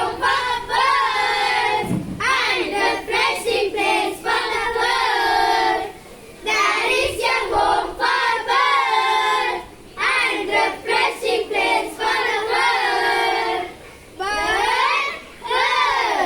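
A group of young children singing an English poem together, in phrases with brief pauses between them.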